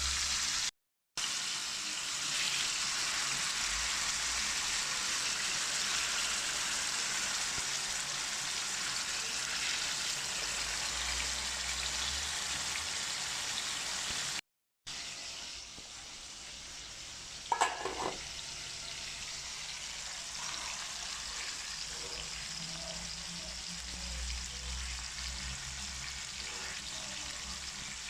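Food sizzling as it fries in a pan, a steady hiss that breaks off twice at edit cuts and is quieter after the second. There is a short, sharp clink about two-thirds of the way through.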